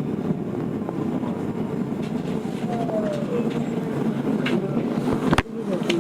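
Tokyo Metro 02 series subway train running, heard from inside the car: a steady rumble of wheels on rail, with a tone gliding down in pitch about halfway through. Near the end come sharp clicks over the rail joints, one of them much louder.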